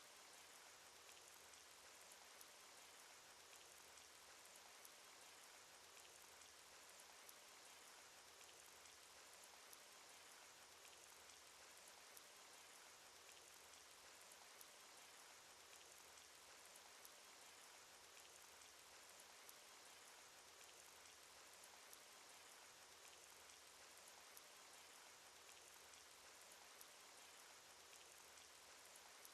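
Cartoon rain sound effect: faint, steady rain with many small drop ticks scattered through it.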